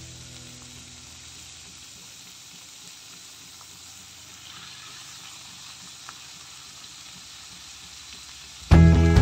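Chopped beetroot stems and leaves frying in oil in a steel pan, a quiet steady sizzle. Loud background music cuts in suddenly near the end.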